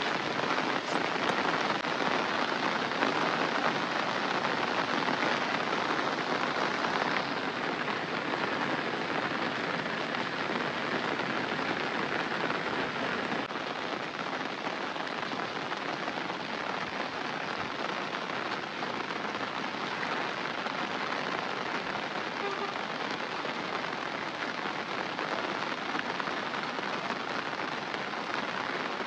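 Steady rain falling on surfaces, an even hiss that becomes slightly quieter about seven seconds in.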